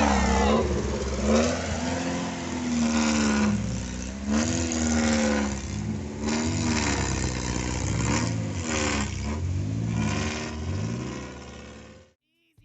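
Off-road buggy engine revving up and down over and over, its pitch rising and falling every second or two, then cutting off suddenly near the end.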